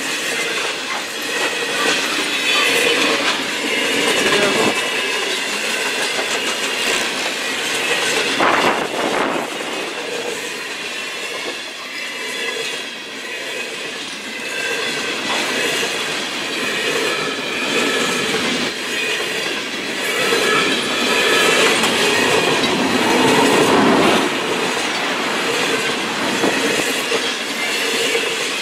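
Train passing close at speed: a steady rush of wheels on rail with a clickety-clack and some high-pitched wheel squeal.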